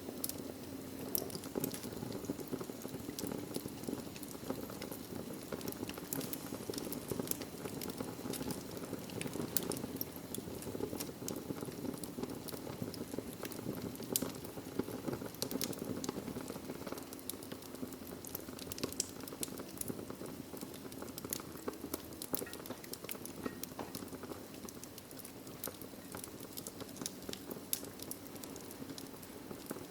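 Wood logs burning in a fireplace: a steady low rush of flame with frequent, irregular sharp crackles and pops.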